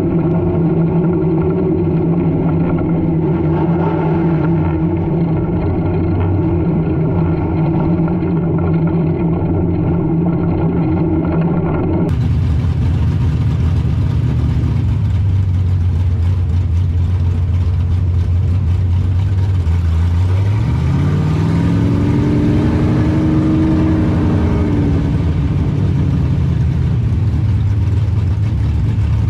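Street stock race car engines running steadily. About twelve seconds in the sound changes abruptly to an engine holding a low steady note, which rises in pitch about twenty seconds in and falls back a few seconds later as the car accelerates and then lifts.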